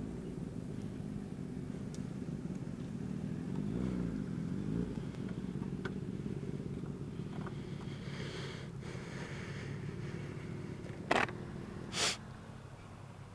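Sport-bike engines idling steadily, with one briefly revving up and down about four seconds in. Two short, sharp noises near the end are the loudest sounds.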